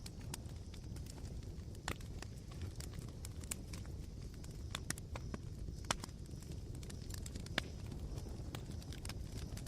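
Smouldering campfire coals crackling, with irregular sharp pops, a few louder ones standing out, over a low steady rumble.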